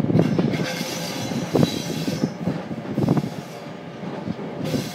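Train wheels rolling on rails, heard from on board the moving train: a steady rumble with irregular knocks over rail joints and points. A high squeal rides over it for about the first two seconds.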